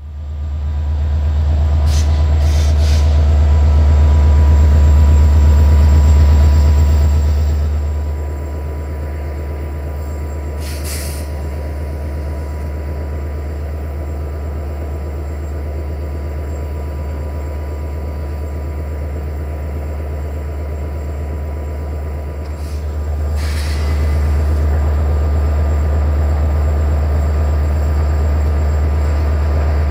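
Passenger train rolling past close by, a steady low rumble with a few brief sharp clanks. It is loudest in the first several seconds, drops as the train moves off, and grows louder again near the end as another train approaches.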